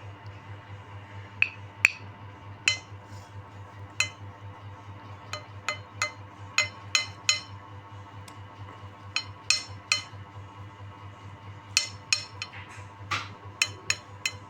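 Eating utensil clinking against a dish or bowl: about twenty sharp, ringing clinks at irregular intervals, some in quick clusters, over a steady low hum.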